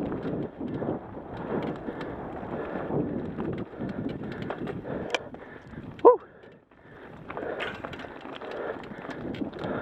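Mountain bike ridden fast down a dirt trail, with tyre noise and the bike's rattles and knocks, and wind on the microphone. About six seconds in, a brief, loud squeal falls in pitch, and the noise drops away for a moment before the rattling resumes.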